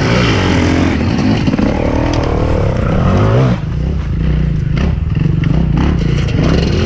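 Enduro dirt bike engine revving up and down in short bursts of throttle, then dropping suddenly about three and a half seconds in to a steady low running note.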